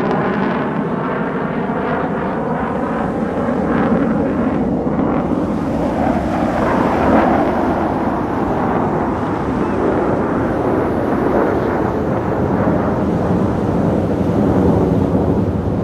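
Jet noise of USAF Thunderbirds F-16 Fighting Falcons flying past, with a few shifting tones at first that give way to a loud, steady rumble.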